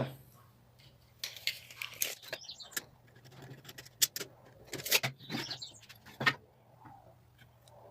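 Wooden board being handled, measured and marked by hand: irregular clicks, taps and brief scrapes, the loudest taps about four, five and six seconds in.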